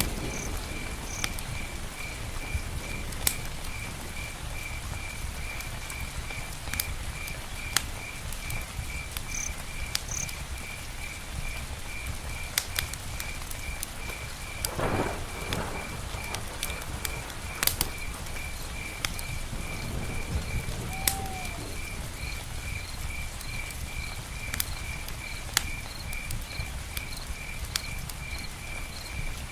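Campfire-and-rain ambience: a cricket chirping steadily at about three chirps a second over a low steady rush of rain, with scattered sharp crackles from the fire.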